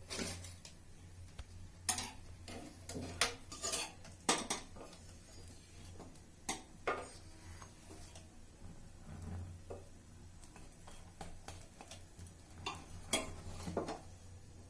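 Metal utensils clinking and knocking against dishes: a series of irregular clicks and clatters, a few of them sharper and louder, over a faint low hum.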